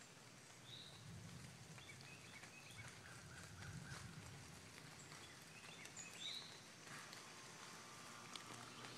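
Faint outdoor ambience with a few short bird chirps, about a second in and again around six seconds, over a faint low rumble in the first half.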